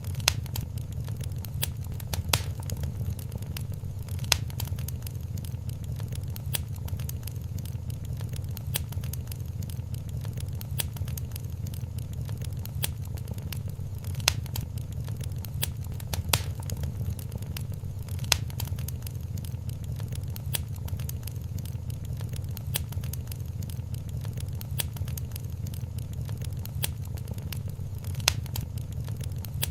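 Wood fire crackling in a fireplace: a steady low rumble of burning with constant fine crackles and a few sharper, louder pops.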